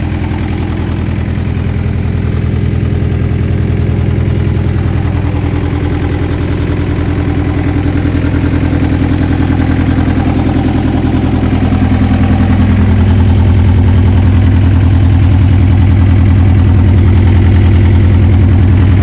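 ASV RC50 Posi-Track compact track loader's diesel engine running steadily, getting louder and holding a stronger note from about twelve seconds in.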